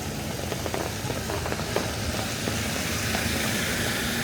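Wet-street traffic: a motor vehicle's engine running, with a hiss like tyres on wet pavement swelling in the last second or so over scattered light ticks.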